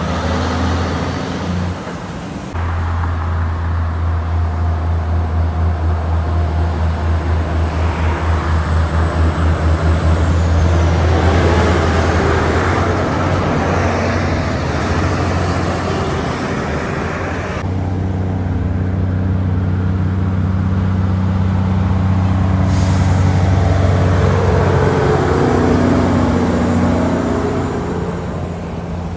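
Heavy truck diesel engines running as lorries drive past, in several short clips cut together, with a low steady engine hum that swells and fades as each truck passes.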